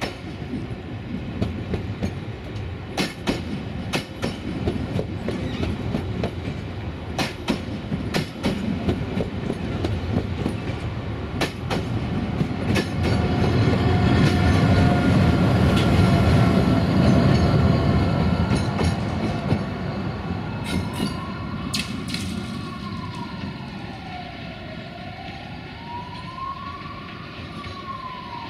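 A train running past over rail joints: sharp wheel clicks at the joints over a rumble that grows to its loudest about halfway and then eases off. In the last third a tone rises and falls slowly and evenly, like a wailing siren.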